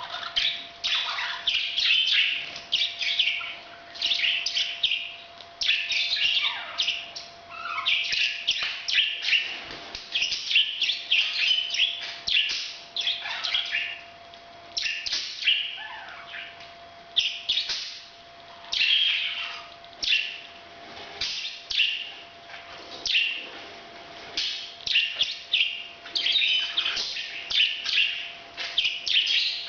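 Pet parrots chirping in rapid, busy bursts of high chirps, a new burst every second or two; the calls are given as their breeding-season sound.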